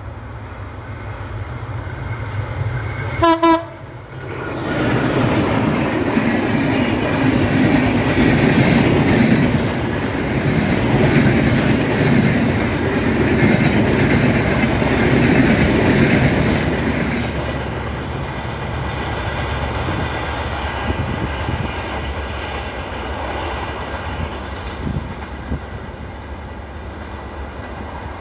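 Diesel-hauled express train passing at speed: the locomotive gives one short horn blast about three seconds in. The locomotive and a long rake of passenger coaches then roll close by with loud wheel and rail noise, which fades slowly as the train draws away.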